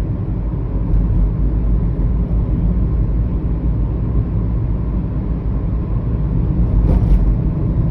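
Steady loud low rumbling noise with a faint hiss above it.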